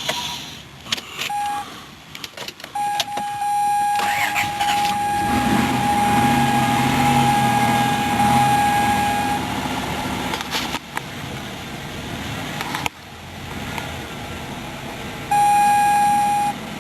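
2003 Dodge Caravan engine being cranked on a cold start and struggling to run. A steady high warning tone sounds for several seconds, and again briefly near the end.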